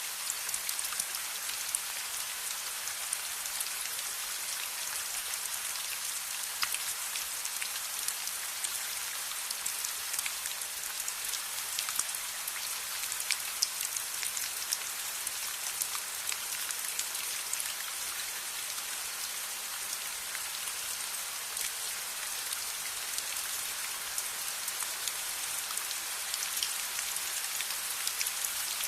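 Steady rain falling, a constant hiss with many small, sharp drop ticks scattered through it.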